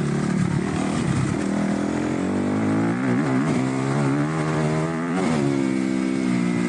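Kawasaki KX250F dirt bike's single-cylinder four-stroke engine running under way, its revs rising and falling several times with the throttle.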